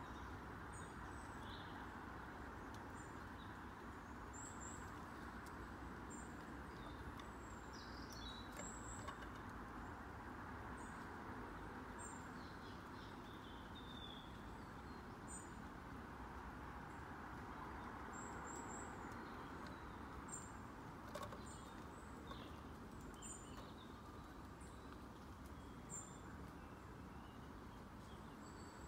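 Small birds' short high chirps, many of them scattered throughout, over a steady low background rush.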